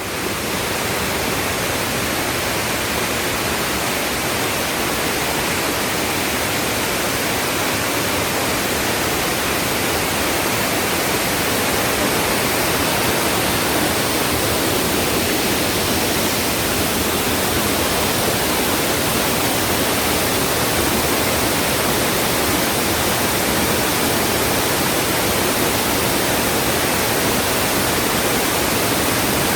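Steady, even rush of a waterfall cascading down rocks into a pool.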